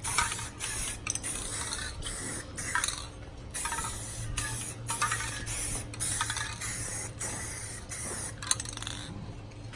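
Aerosol spray paint can hissing in repeated short bursts with brief pauses, laying multiple coats of paint on a truck grille.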